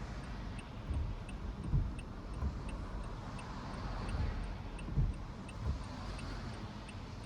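Road noise inside a moving car: a steady low rumble with occasional bumps and a hiss. A faint, quick, regular ticking runs through it.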